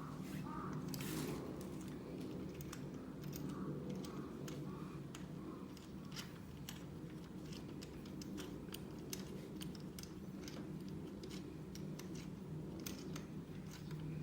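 Hand flaring tool being worked on copper refrigerant pipe: a run of sharp metal clicks and small scrapes, sparse at first and quicker from about halfway in, over a steady low hum.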